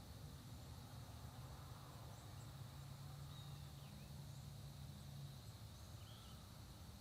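Faint, distant songbirds giving a few short, scattered chirps over a quiet dawn countryside, with a low steady hum underneath that fades out about five seconds in.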